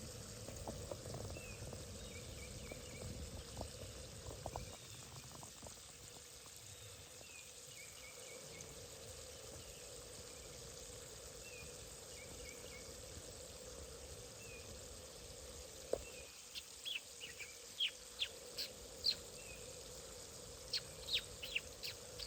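Wild birds chirping: a short high call repeats about every two seconds, then from about two-thirds of the way in a run of sharp, high chirps becomes the loudest sound, over a faint steady hum of outdoor background.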